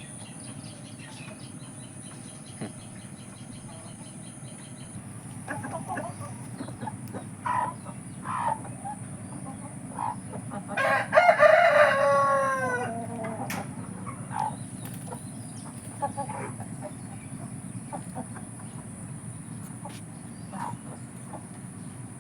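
A rooster crowing once, loudly, about eleven seconds in, the crow trailing down in pitch over about two seconds. Hens cluck briefly before and after it.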